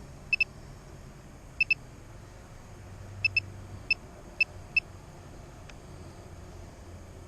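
Short high electronic beeps, three quick pairs and then three single beeps, over a steady low wind rumble.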